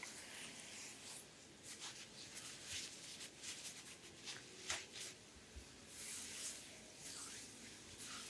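Hands rubbing and gliding over oiled skin of the abdomen: faint, irregular swishing strokes with a few small wet clicks.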